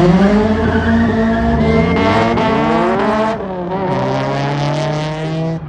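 A car engine revving hard. It starts suddenly and its pitch climbs for about three seconds as it accelerates, then it runs on at a steadier high pitch.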